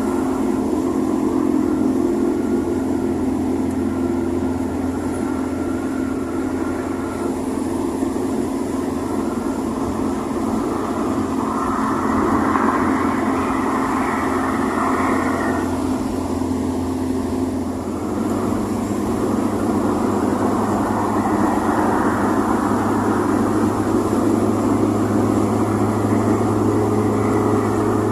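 1987 VW Voyage's AP 1.6 four-cylinder engine running steadily, its low drone stepping up to a slightly higher pitch about two-thirds of the way through.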